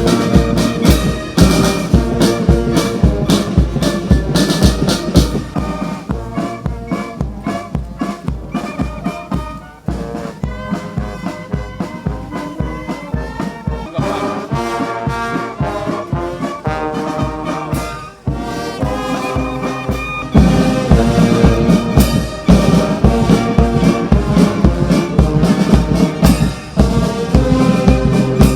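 Military brass band playing a march, with trumpets and trombones over a steady drum beat; the band gets fuller and louder about two-thirds of the way through.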